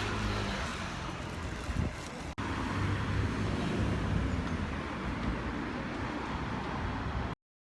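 Steady outdoor background noise, a low rumble with hiss, broken by a brief dropout about two seconds in and cutting off abruptly near the end.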